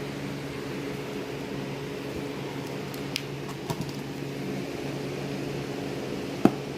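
Small portable washing machine's motor running with a steady hum, with a few light ticks and one sharp click near the end.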